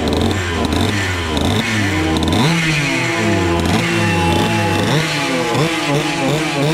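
135cc Sudam kart engine running hard, its pitch repeatedly dropping and climbing again as it comes off and back onto the throttle, with a sharp rise about two seconds in.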